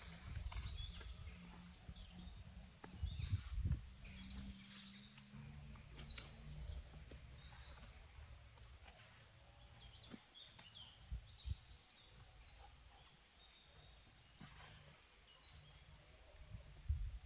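Faint outdoor handling noise: scattered small clicks and crackles over a low, uneven rumble, with a louder cluster of knocks about three seconds in.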